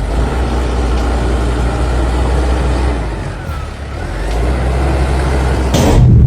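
Road vehicle engine and road noise, a steady rumble that dips briefly a little past halfway, with a short sharp burst of noise near the end.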